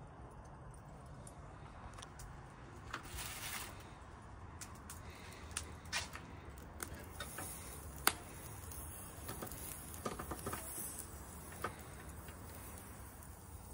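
Scattered light clicks and taps, with one sharper click about eight seconds in, over a low steady background hum.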